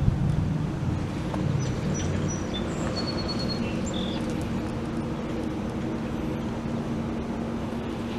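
1933 Chevrolet Master's inline-six engine running steadily, easing slightly in loudness in the first second. A few faint bird chirps come about two to four seconds in.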